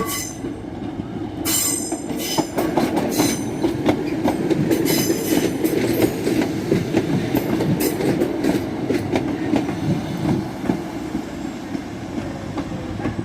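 A train running along the track, its wheels clicking over rail joints, with several brief high-pitched wheel squeals in the first half.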